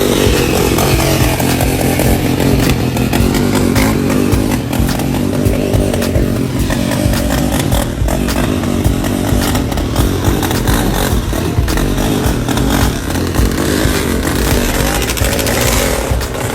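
A loud vehicle engine running close by, its pitch sliding down and back up as it is revved.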